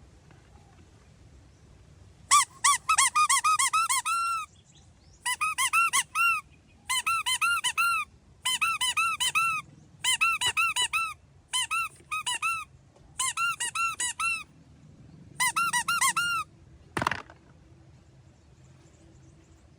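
High-pitched squeaks in eight quick bursts, about five to a second, each squeak rising and falling in pitch. A short swish follows near the end.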